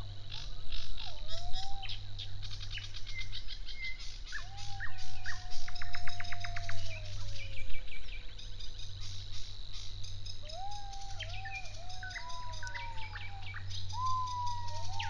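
Several birds singing together: fast, chattering trills and repeated high notes alongside slow, low whistles that glide down and up.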